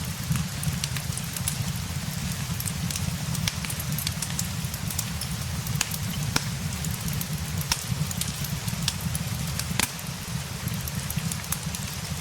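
Steady rain mixed with a crackling fireplace: a constant low rumble and hiss under scattered sharp pops and crackles, a few louder ones standing out.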